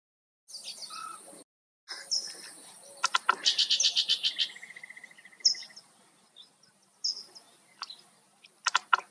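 Wild songbirds calling and singing: short high chirps, with a fast run of rattling notes about three seconds in and a steady held note just after it. The sound drops out briefly near the start, between two pieces of audio.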